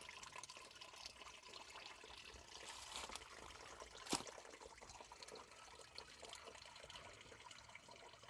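Faint trickle of a small woodland stream running over rocks, with one sharp click about four seconds in.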